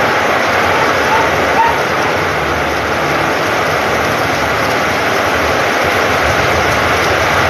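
Heavy rain pouring down steadily, a dense even hiss of rain falling onto flooded ground.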